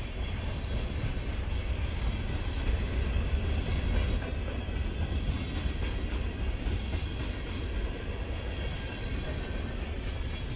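Diesel freight train running past with a steady, deep rumble.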